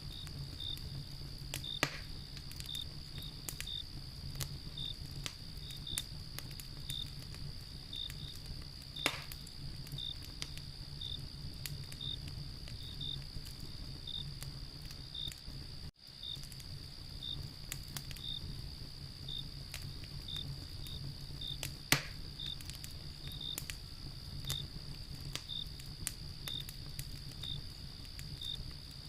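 Wood fire crackling with scattered snaps and three sharper pops, over steady cricket chirping and a constant high insect trill.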